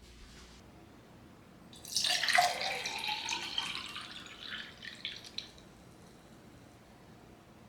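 Water pouring and splashing, starting about two seconds in, loudest at first and then trailing off over about three seconds with small drips.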